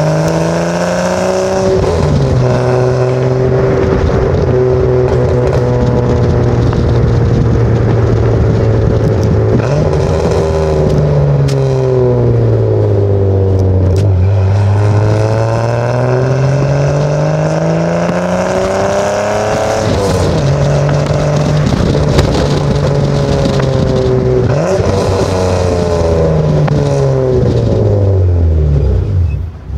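BMW M20B27 2.7-litre straight-six running through a 2.5-inch cat-delete exhaust. The engine note climbs and falls slowly several times, and drops sharply twice, about two seconds in and about twenty seconds in.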